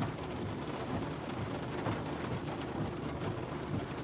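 Steady rain noise with the low rumble of a vehicle, broken by a few light ticks.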